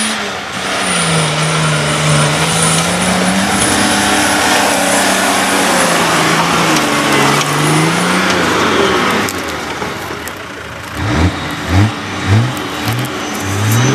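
An off-road 4x4's engine working hard under load, its pitch wavering up and down, with a heavy rushing noise over it for the first nine seconds or so. It then drops back, and near the end gives four or five quick rising blips of the throttle.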